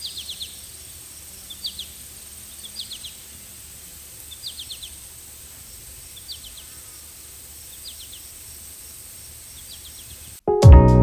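Outdoor ambience with a steady faint hiss and a small creature's high, quick chirps in short groups of three to five, repeating about every second and a half. Loud background music cuts back in near the end.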